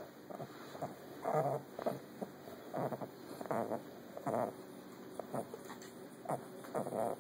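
A pet animal making a string of short vocal noises: about seven brief calls at uneven intervals.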